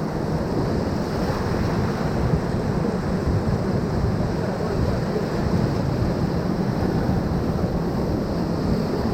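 Rushing river whitewater around a moving raft, a steady even rush, with wind buffeting the microphone.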